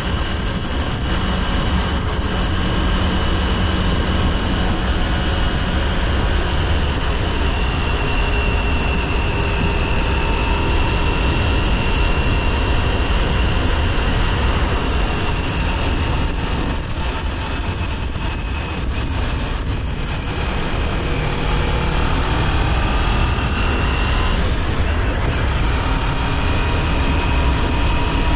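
Kawasaki Ninja 400 parallel-twin engine running while riding, with heavy wind rush on the microphone. The engine note eases off around eighteen seconds in, then climbs again as the bike accelerates.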